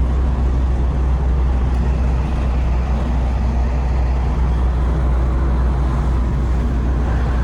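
A car on the move: a steady, loud low rumble of engine and road noise that holds level with no change in pitch.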